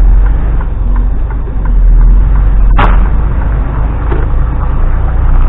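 HGV lorry's diesel engine heard from inside the cab as it pulls away, a loud steady low rumble with a brief dip about a second in, and one sharp click about three seconds in.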